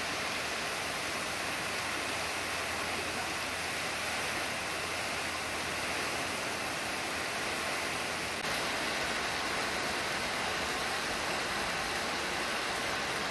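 Heavy rain pouring down, a steady even hiss that gets slightly louder about eight seconds in.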